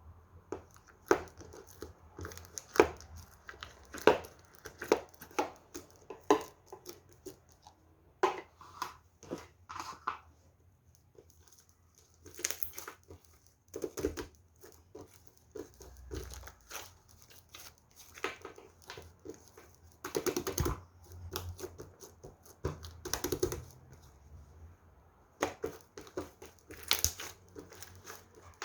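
Clear slime being squished and pressed by hand, giving strings of irregular sticky pops and crackles in bursts with short pauses between.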